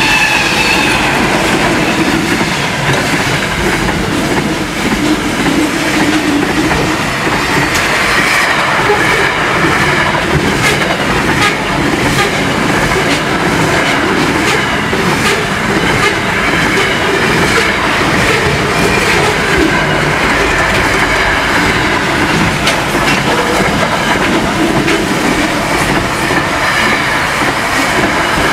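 Pacific National freight train passing close by. The last of its NR-class diesel locomotives goes past at the start, then a long string of container flat wagons rolls by in a steady loud rumble, the wheels clicking repeatedly over the rail joints.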